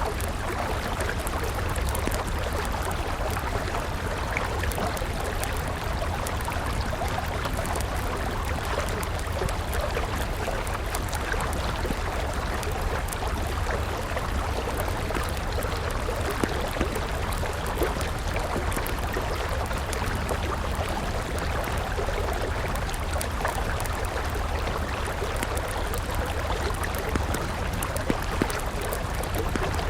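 River water flowing steadily, with a wood campfire crackling over it and a few sharper pops now and then.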